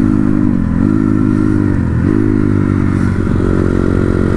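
Dirt bike engine running hard under throttle, its pitch dipping briefly and climbing back three times.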